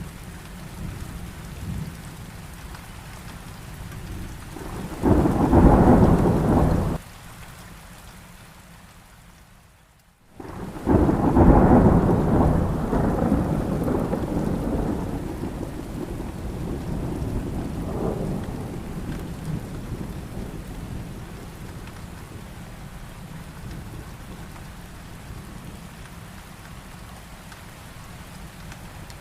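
Heavy rain with thunder. A loud burst of thunder about five seconds in cuts off abruptly, the sound almost drops out around ten seconds, then a long rumble of thunder swells up and slowly dies away under the steady rain.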